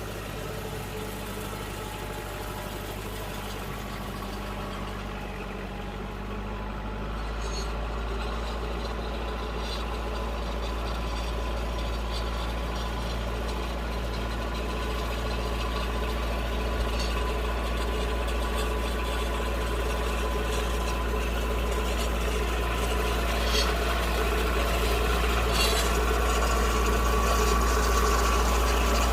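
Tractor engine running steadily while it spreads fertilizer across a rice paddy, growing louder as it comes closer. Its low engine note shifts and strengthens about seven seconds in.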